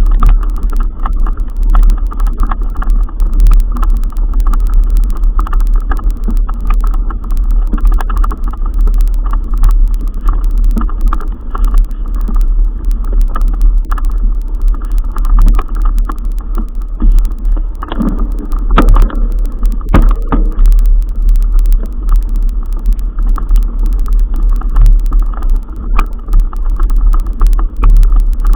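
Loud, constantly fluctuating wind rumble on the microphone, with scattered rattles and knocks; a cluster of louder knocks comes about two-thirds of the way through.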